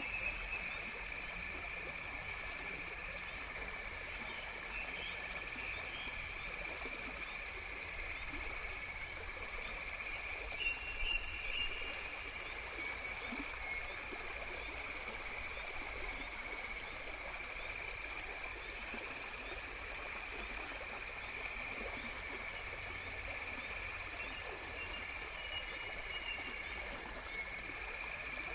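A steady chorus of insects trilling, like crickets. A second, higher-pitched insect layer joins a few seconds in and drops away past the middle. Faint regular ticks run through the second half, with a couple of short chirps.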